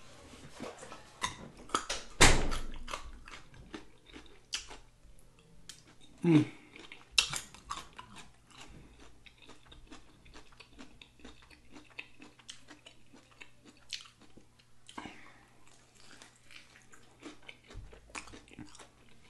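Close-miked chewing and biting of chicken wings: wet lip-smacking and many small clicks, with a louder knock about two seconds in.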